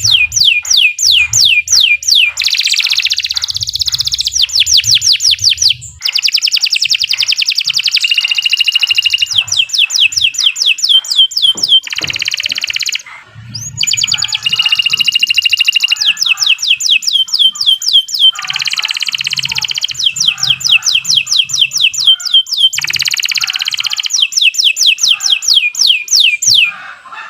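Domestic canary singing a long, continuous song. Phrases of rapid, high, downward-sweeping notes alternate with fast trills and rolls, with brief pauses about 6 and 13 seconds in.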